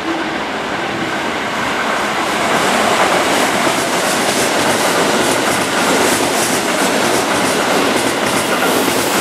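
A train running on the rails, a steady loud rumble with the clatter of its wheels.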